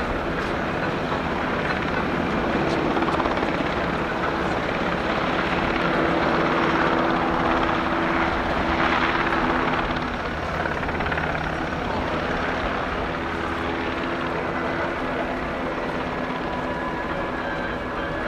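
UH-60J rescue helicopter flying, its rotor and twin turbine engines running steadily. It grows louder toward the middle, then eases off slightly.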